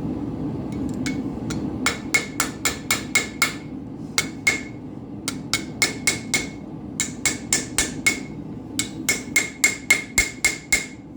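Hand hammer striking hot steel on an anvil while forging a nail, in quick runs of sharp blows, each with a short metallic ring. A steady low drone runs underneath.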